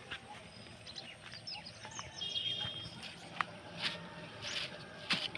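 Small birds chirping and twittering, with a short trill a little past two seconds in. Several sharp clicks or crackles come later, about one every half second to second.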